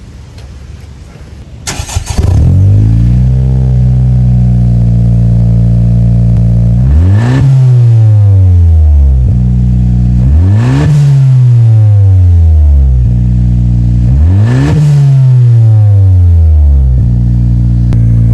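Honda Civic Si's turbocharged 1.5-litre four-cylinder breathing through a new Invidia Gemini cat-back exhaust, cold-starting about two seconds in: a brief crank, then a fast idle that settles. It is then revved three times, each rev climbing sharply and falling back over about two seconds, with a fourth rev starting at the end.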